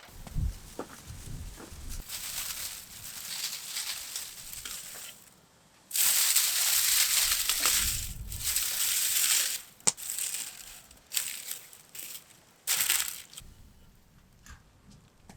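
Crunching and rustling noises in irregular bursts, loudest for about four seconds midway, with a sharp click just after.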